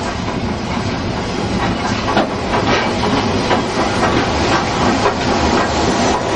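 A train running on the line: a steady running rumble with a series of sharp knocks from the wheels and rails.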